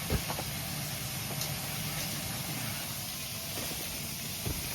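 Battered shrimp frying in hot oil: a steady sizzle, with a soft knock just after the start and another near the end.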